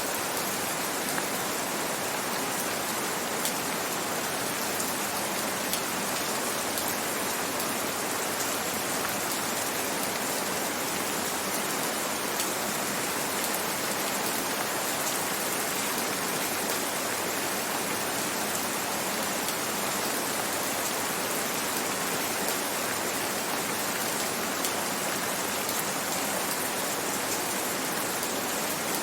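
Gentle rain falling steadily: an even hiss of rainfall with small scattered drop ticks.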